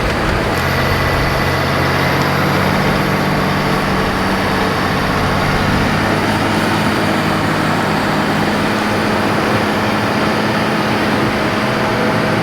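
Caterpillar D8 bulldozer's diesel engine running steadily under load as the dozer pushes a pile of dirt and trees. The engine note settles at a held pitch about half a second in.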